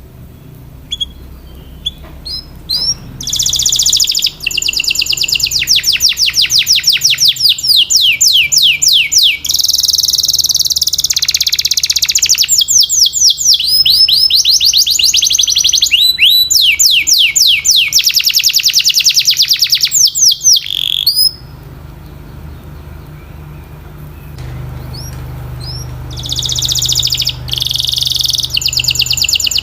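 Domestic canary singing: long, high-pitched runs of rapid, repeated trill notes in changing phrases. It breaks off for a few seconds about two-thirds of the way through, then starts a new trill near the end.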